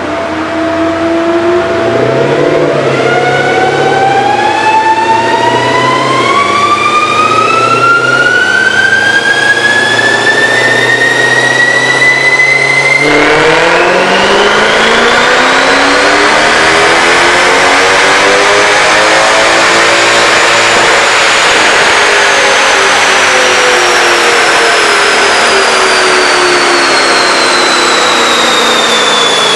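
Mercedes-Benz C63 AMG (W204) 6.2-litre V8 with a Scorpion exhaust, run hard on a chassis dynamometer. Its pitch climbs steadily, drops suddenly about thirteen seconds in with a gear change, climbs again, then falls steadily through the last several seconds as the revs wind down.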